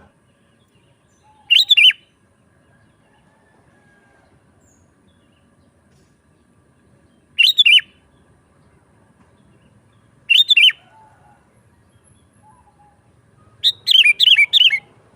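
Sooty-headed bulbul singing: four short phrases of a few quick, clear notes, several seconds apart, the last one longer with more notes.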